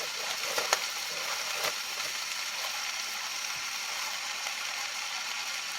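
Hot oil sizzling steadily in a frying pan with butternut squash cooking in it, with a couple of sharp pops about one and two seconds in.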